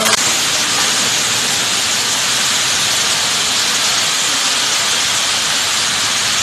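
Heavy rain pouring down on trees and foliage: a steady, even hiss.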